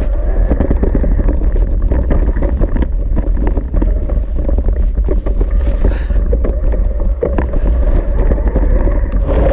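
Electric mountain bike riding a rough, wet trail: heavy wind rumble on the action camera's microphone, with continual rattles and knocks from the bike over the ground and a steady hum underneath.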